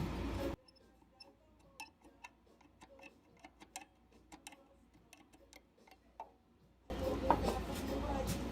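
A steady hum with a held tone cuts off about half a second in. Faint, irregular clicks and small taps follow, several a second, until the hum comes back near the end.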